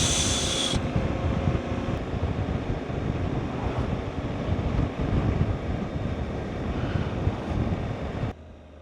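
Wind rushing over the microphone of a moving motorcycle, with low engine and road rumble underneath. It cuts off suddenly near the end, and much quieter sound follows.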